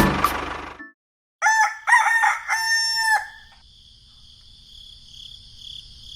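A rooster crowing once: a few short notes, then one long held note. A faint, steady chirring of crickets follows.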